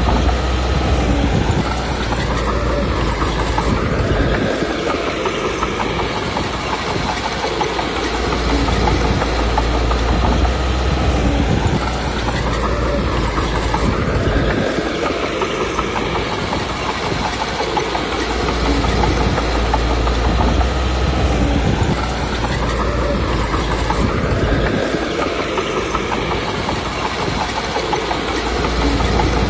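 Komatsu D21P crawler bulldozer working: diesel engine running with its steel tracks clanking. The engine note rises and falls in a repeating cycle about every ten seconds.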